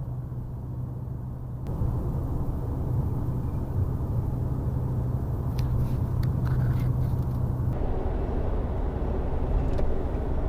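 Vehicle running on the road: a steady low engine hum and road noise. The sound changes abruptly twice, at about 2 and 8 seconds in.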